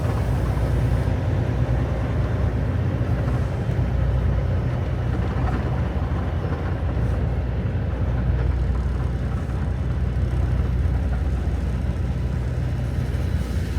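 Semi-truck diesel engine running steadily, heard from inside the cab as a low rumble.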